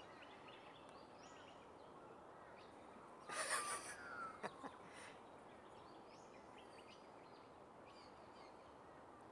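Faint birds chirping over a steady open-air background, with a brief loud rustling clatter a little over three seconds in, followed by a couple of small clicks.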